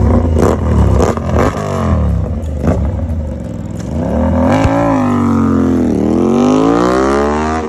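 Aprilia RS 457 parallel-twin engine revving through an Arrow aftermarket exhaust. It starts with quick repeated throttle blips and a few sharp cracks, then a longer rev that dips and climbs again toward the end.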